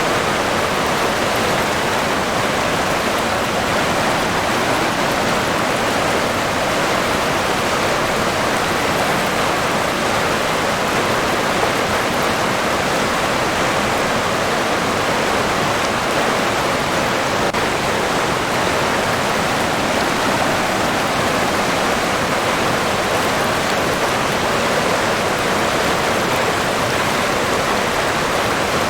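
River water rushing and burbling steadily, a constant even flow with no breaks.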